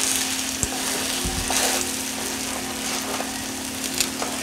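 Battered elderflower clusters (Hollerstrauben) frying in hot fat: a steady sizzle with a few sharp pops.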